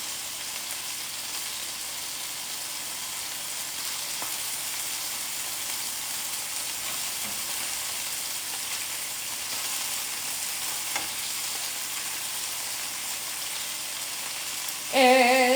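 Chicken breast tenderloins sizzling steadily in hot olive oil in a skillet as they brown, with a faint pop or two.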